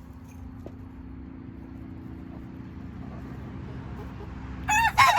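A steady low hum grows gradually louder, then near the end a rooster breaks into a loud crow, a short note followed by a long drawn-out one.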